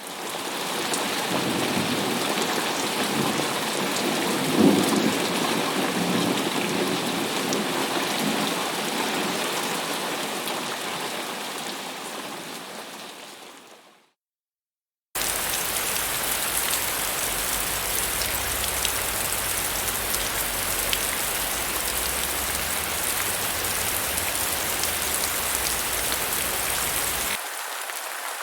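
Rain sound-effect recordings played back to back. Heavy rain fades in with a rumble of thunder swelling about five seconds in, then fades out. After a second of silence, steady rain starts abruptly with a low rumble underneath, and near the end it switches to a lighter-sounding rain recording.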